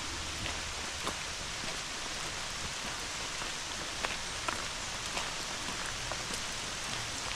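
Steady hard rain falling, with scattered sharper drops ticking close by.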